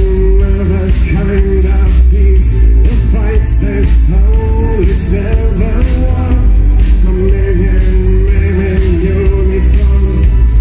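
Loud live band music with heavy bass and a gliding melodic lead line.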